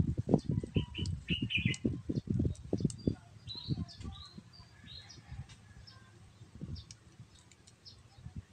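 Small birds chirping in short bursts, over a run of dull low thumps that come several times a second during the first three seconds and then fade.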